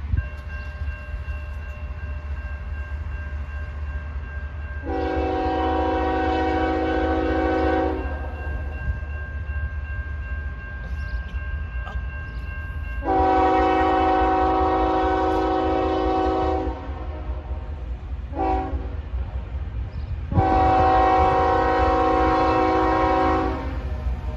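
Locomotive air horn sounding the grade-crossing signal: two long blasts, a short one, then a long one, over a steady low rumble of the train.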